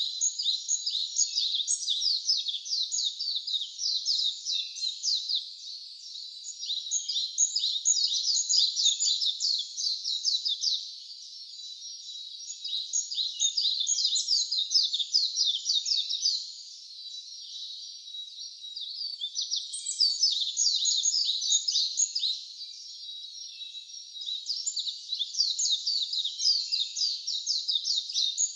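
A songbird singing long, rapid, high-pitched phrases, each a dense run of quick falling notes lasting about four to five seconds, with short pauses between phrases.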